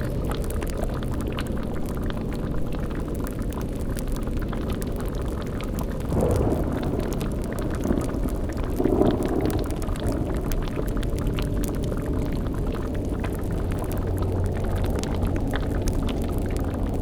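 Layered spooky ambience: a steady low rumble with bubbling like a boiling cauldron and faint crackles over it, broken by two short deeper swells about six and nine seconds in.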